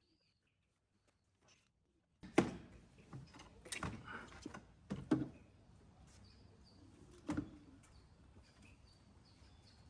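Hand tools knocking and clanking in an engine bay while a serpentine belt is fitted with a socket, extension and breaker bar: about five sharp knocks spread over several seconds, the loudest about two seconds in, after a near-silent start.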